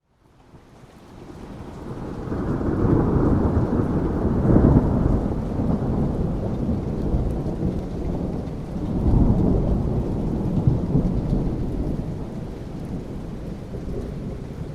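Thunder rumbling over steady rain. After a brief silence the rumble swells within a couple of seconds, surges twice, the second time about nine seconds in, then slowly fades.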